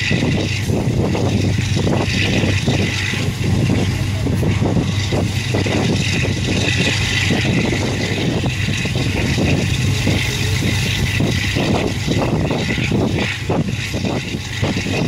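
Passenger train running along the track at speed, heard from a coach window: a steady low rumble of wheels on rail with irregular clatter and knocks throughout, and rushing air noise.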